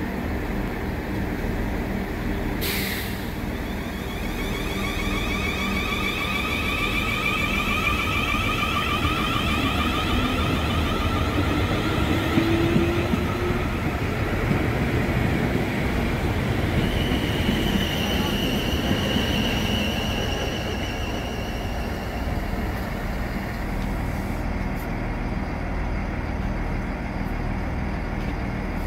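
Siemens Desiro electric multiple unit pulling away, its traction inverters giving a rising, stepped whine over the rumble of wheels on rail, with a sharp clack about three seconds in. Underneath, a Class 166 Turbo diesel multiple unit runs in alongside, its engines giving a steady low rumble.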